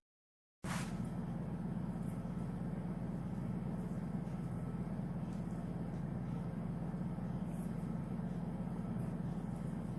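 A steady low hum with a few faint ticks. The sound cuts out completely for about half a second at the very start.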